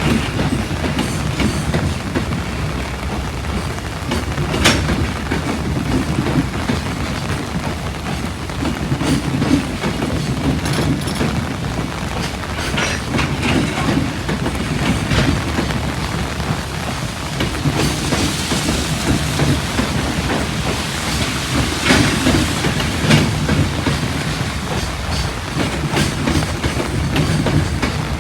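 Freight train of container wagons passing at speed: a steady rumble of wheels on rail, with scattered sharp clicks as the wheels cross rail joints. Heavy rain hisses underneath.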